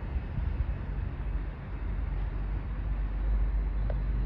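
Low, steady vehicle rumble with wind on the microphone, swelling slightly about three seconds in.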